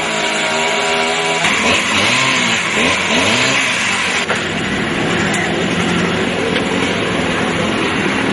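Street traffic: vehicle engines running, their pitch rising and falling as they rev, over a steady wash of road noise.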